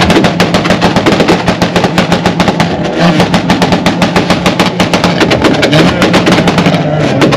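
Race car engine held at high revs, firing in a rapid, even stutter of pops.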